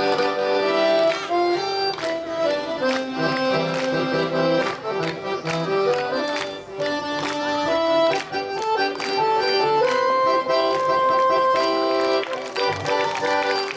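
Accordion playing a trot melody over a steady beat, with long held notes near the end.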